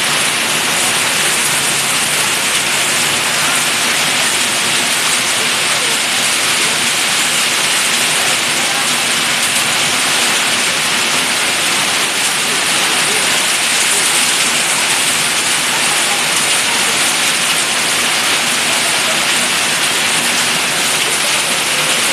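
Heavy rain pouring down steadily onto a flooded street, a dense, even hiss with no let-up.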